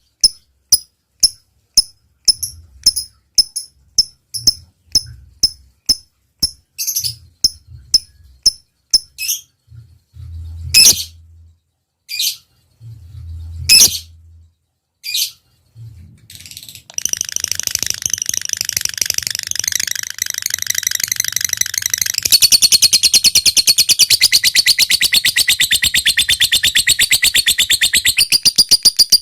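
Lovebird calling: short sharp chirps at an even pace, then a few louder single calls, then from about 17 seconds in a long, fast, unbroken chattering trill, the long 'ngekek' of a bird in full song.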